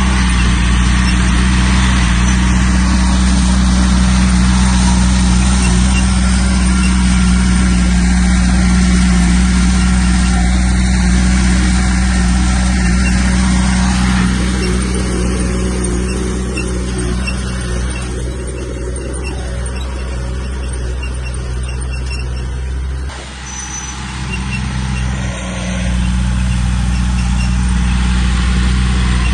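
Diesel engine of heavy earthmoving machinery running steadily, easing to a lower level about halfway through, dipping briefly, then coming back up near the end.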